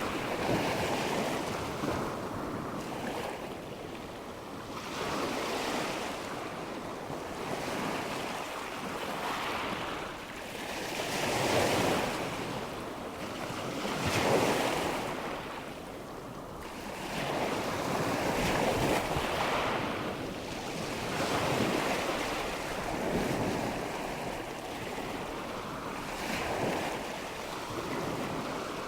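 Nature-sound recording of rushing water, like surf, mixed with wind, swelling and fading every few seconds.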